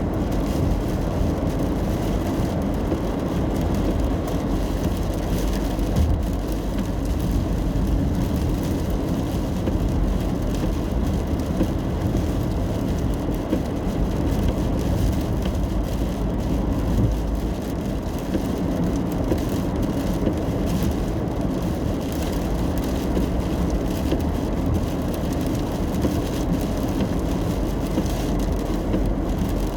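A car driving in the rain, heard from inside: a steady low rumble of tyres and engine on the road, with a faint patter of rain on the car.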